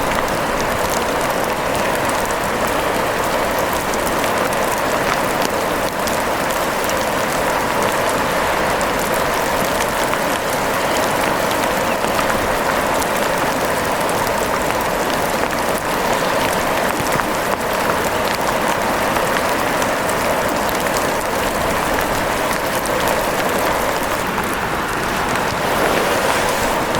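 Steady rain falling: a dense, even hiss of drops, flecked with many small ticks, that keeps on without a break.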